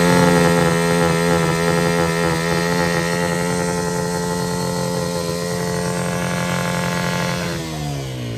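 Pit bike engine held at steady high revs, then the revs drop off near the end.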